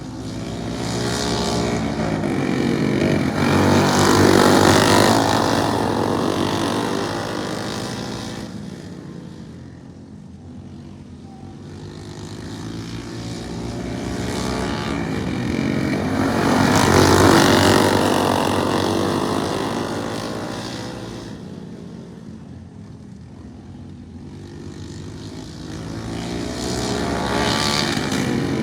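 Racing lawn mower engines running at high revs as the pack laps the track, the sound swelling as the mowers pass close and fading as they move away, about every 13 seconds: two full passes and the start of a third near the end.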